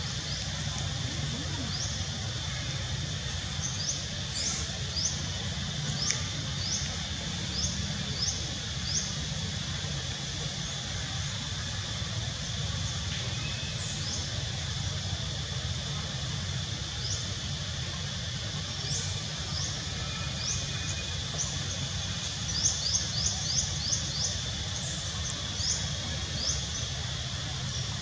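Outdoor ambience: small birds giving quick series of short, high chirps, most densely about three quarters of the way through, over a steady high-pitched hum and a low background rumble.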